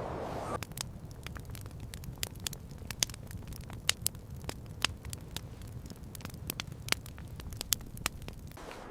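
Sharp, irregular crackles and pops over a low steady rumble, starting about half a second in and stopping shortly before the end.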